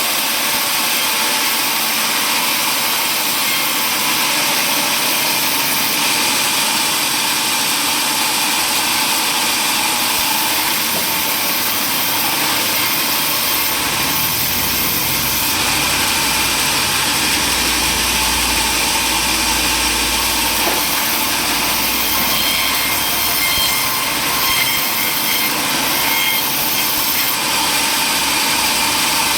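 Table saw running steadily and cutting wood, with a deeper rumble for several seconds in the middle as it works through the cut.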